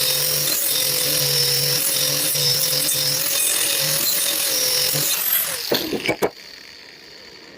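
Electric angle grinder running steadily, grinding the welded edge of a steel log-splitter axe blade. It shuts off about five and a half seconds in with a falling whine, followed by a few sharp knocks.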